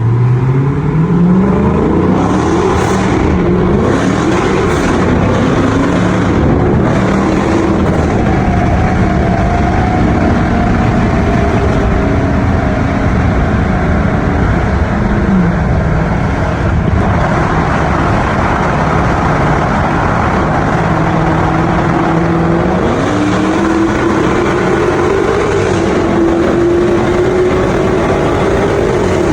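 Dodge Hellcat's supercharged 6.2-litre HEMI V8 running loud under load, its pitch climbing sharply at the start and then rising and falling repeatedly as it accelerates and eases off.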